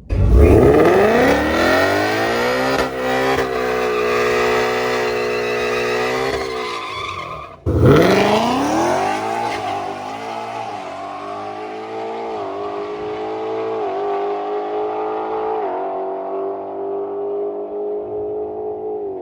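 A drag car launches hard and accelerates down the strip, its engine pitch climbing with gear changes. The sound cuts off abruptly and a second hard launch follows. That engine rises through several upshifts and fades as the car pulls away.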